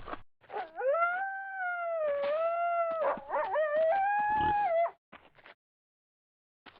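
A long, wavering animal howl that rises and falls in pitch for about four seconds, then stops abruptly.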